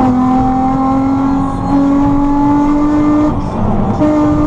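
Pickup truck engine and exhaust droning under acceleration, the pitch climbing steadily, with a short dip about three seconds in as it shifts gear.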